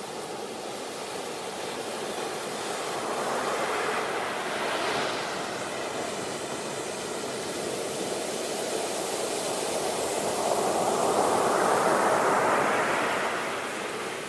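Sea waves surging and washing ashore in a steady hiss of surf. Two swells build and fade, the second louder one a little after the middle.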